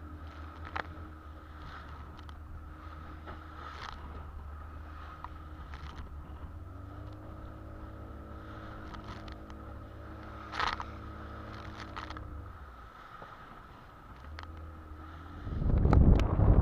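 Fishing boat's engine running steadily under way, its note shifting about halfway through and dipping briefly near the end, with a few light knocks. Near the end a loud rushing noise rises over it.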